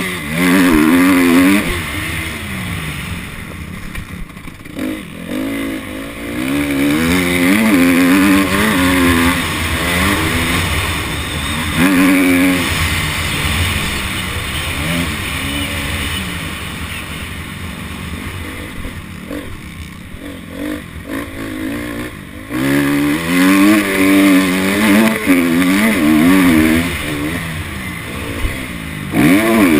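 Honda CRF250 four-stroke single-cylinder dirt bike engine being ridden hard on a motocross track. It revs up repeatedly and drops back as the throttle is opened and closed, with a quieter, lighter-throttle stretch in the middle.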